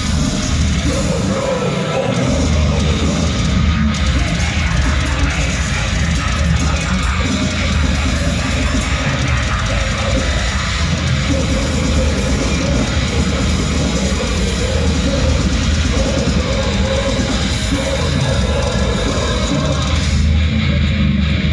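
Heavy metal band playing live: distorted electric guitars, bass and drum kit, loud and dense, without a break.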